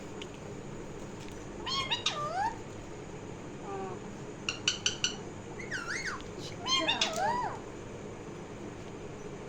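Pet parrot (a 'raw' parrot) calling: three bursts of swooping, wavering calls, the middle one a quick run of short sharp chirps.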